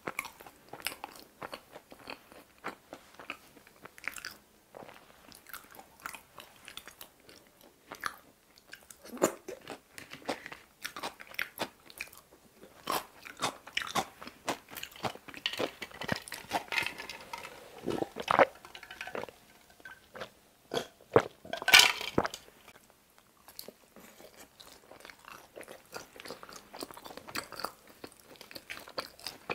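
Close-miked chewing of pizza: steady crunching and wet mouth clicks, loudest in a couple of sharp crunches about two-thirds of the way through.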